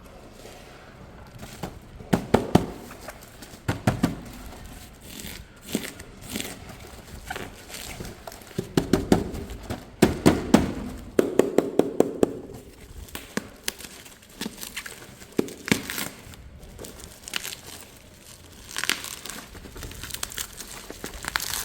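Toy packaging being handled and opened by hand: crinkling, rustling and tearing, with irregular sharp clicks and taps. The handling is busiest about halfway through.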